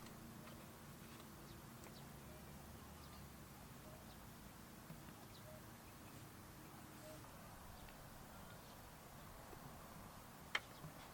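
Near silence: faint outdoor ambience with a few faint short chirps and a low hum that fades out partway through, broken by one sharp click near the end.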